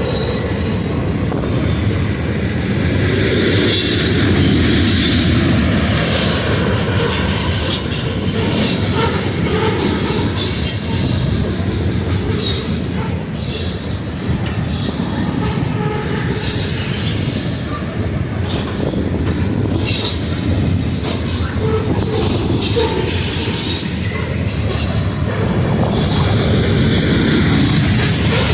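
Freight train cars rolling past on the mainline: a steady rumble of steel wheels on rail, with occasional faint high wheel squeal.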